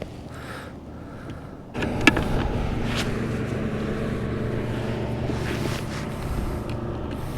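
A motor running steadily, starting suddenly about two seconds in, with a couple of sharp knocks near its start.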